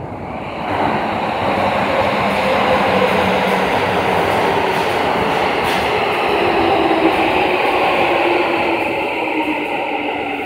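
Keikyu electric train pulling into an underground station: a loud, steady rumble of wheels on rails that swells about a second in. Pitched motor whine tones run through it and slide down in pitch toward the end as the train slows.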